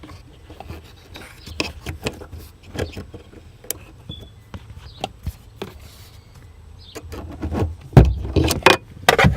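Scattered small clicks and scrapes of hand tools working at a metal hose clamp on a fuel hose. A heavier thump about eight seconds in is followed by a quick run of louder clatter.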